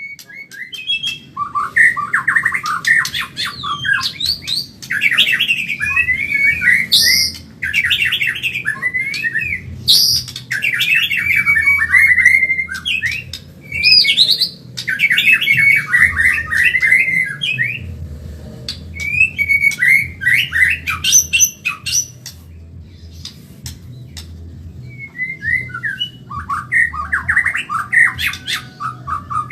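White-rumped shama (murai batu, Medan type) singing rapid, varied song phrases in repeated bursts, pausing for a few seconds near the end before starting again.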